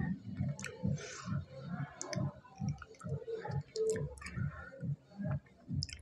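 A person chewing food close to the microphone, with wet mouth clicks and lip smacks over a steady chewing rhythm of about two to three chews a second.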